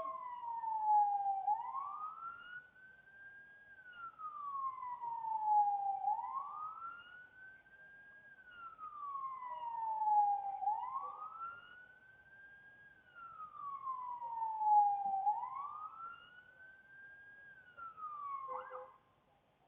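Emergency vehicle siren in a slow wail: the pitch climbs, then falls more slowly, repeating about every four and a half seconds. It stops abruptly near the end.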